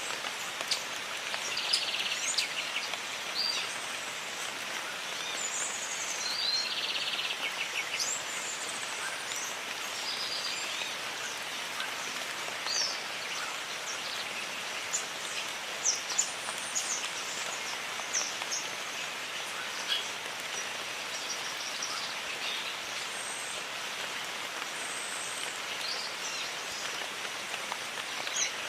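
Steady rain falling, with birds giving short chirps and whistles throughout and a couple of brief rapid trills early on.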